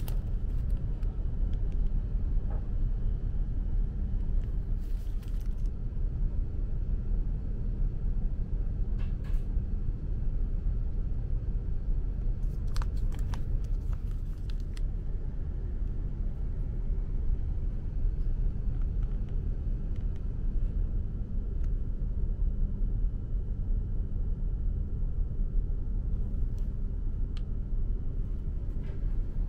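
Steady low rumble inside the cabin of a Hayabusa Shinkansen running at speed, with a few faint, brief rustles and clicks over it.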